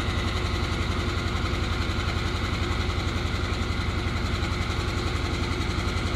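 Truck engine idling steadily with an even low throb, no revving.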